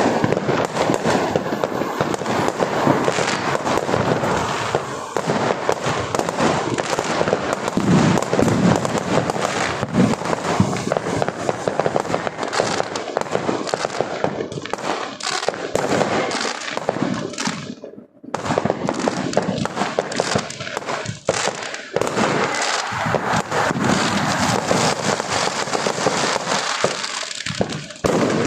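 Fireworks display: a dense, continuous barrage of bangs and crackling, with a brief break about two-thirds of the way through.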